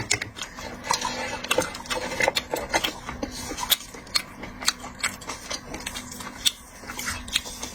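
Irregular sharp clicks and taps of small objects being handled, one to several a second, over a steady low hum.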